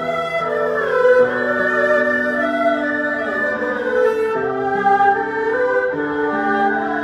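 Ensemble of erhu and zhonghu (Chinese two-string bowed fiddles) playing a slow melody. The upper line slides between notes over held lower notes.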